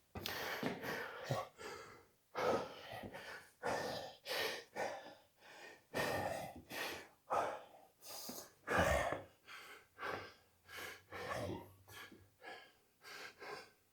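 A man breathing hard from exertion in a high-intensity workout, a long run of quick, heavy, gasping breaths in and out.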